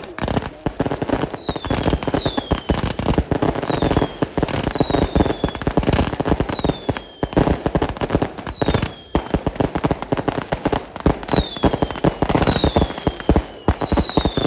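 Fireworks and firecrackers going off in a dense, continuous crackle of bangs, with about nine short whistles falling in pitch cutting through it from whistling fireworks.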